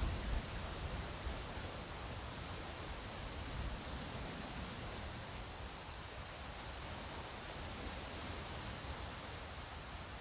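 A cricket chirping faintly, a high repeating trill over an even hiss. Light wind rumbles on the microphone.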